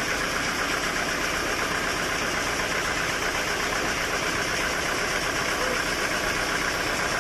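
Sawmill machinery running with a steady, unchanging mechanical drone.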